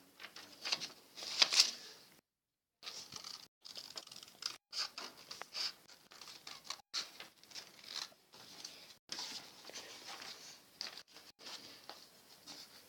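A sheet of printer paper being handled, folded and creased by hand: irregular dry rustles and crackles, with a few sharper crinkles. All sound cuts out briefly about two seconds in.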